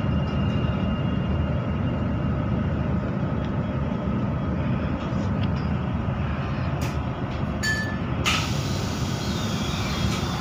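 Steady rumble of a KTMB SkyPark Link electric train heard from inside the carriage. About eight seconds in there is a short tone with a few clicks, then a hiss that lasts to the end.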